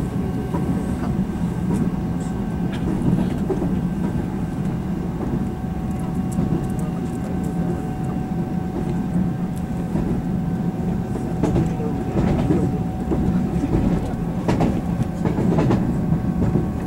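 Taiwan Railways EMU700 electric multiple unit running at steady speed, heard from inside the passenger car: an even rumble of wheels on rail with a steady high tone over it. A few sharp clicks come in the second half.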